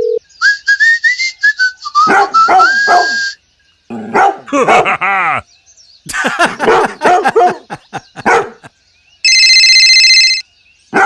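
A dog barking in repeated short runs, after a few whistle-like rising and falling tones at the start. A steady electronic beep sounds for about a second near the end.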